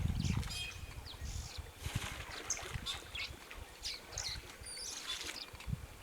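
Wild birds chirping and calling in short, repeated notes, over an irregular low thumping and rustling that is loudest at the start.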